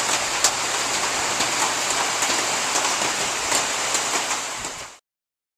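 Rain falling on surfaces, a steady hiss with scattered sharp drop ticks; it fades and cuts off about five seconds in.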